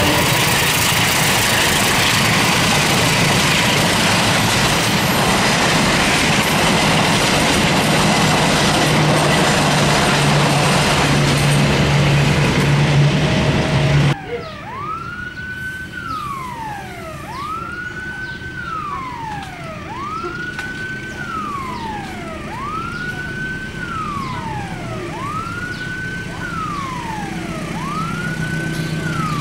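A passenger train hauled by a diesel locomotive passes close by: loud wheel-on-rail noise with a steady engine hum. After a sudden cut it is quieter, and a level-crossing warning siren wails over and over, rising quickly, holding, then falling, about once every two seconds, while the approaching locomotive's hum grows near the end.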